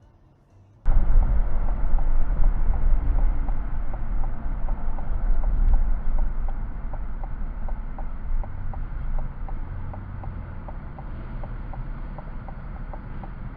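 Vehicle driving, heard through a dashcam microphone: a steady rumble and rush of road and wind noise that starts abruptly about a second in, with a faint rapid ticking running through it.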